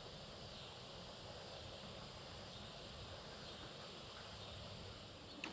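Faint, steady outdoor background of insects chirring, with no distinct events.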